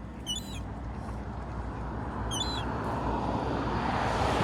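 Young gull giving two short high-pitched peeping calls, about half a second in and again after two seconds, over a rushing noise that swells toward the end.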